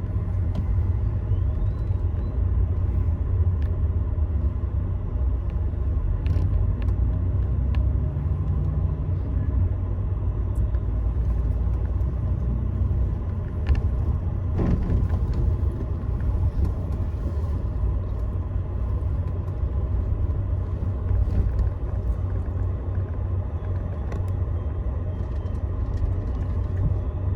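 Steady low rumble of a Scania Astromega double-decker coach running, heard from inside the cabin, with a few faint clicks.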